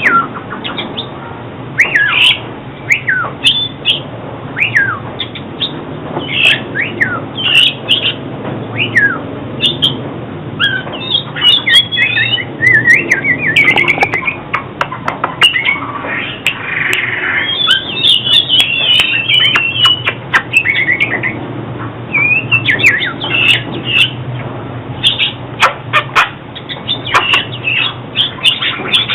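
Oriental magpie-robin singing: a varied run of clear whistled notes that slide up and down, broken by fast chattering runs, over a steady low hum.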